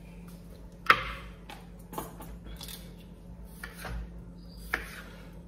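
Kitchen clatter from cooking: a handful of sharp knocks and clinks of pot and utensils as vegetables are put into a pot, the loudest about a second in.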